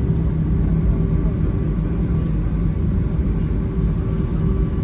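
Cabin noise inside an Airbus A321 rolling on the ground after landing: a steady low rumble of wheels and airframe, with the IAE V2500 engines humming at low power.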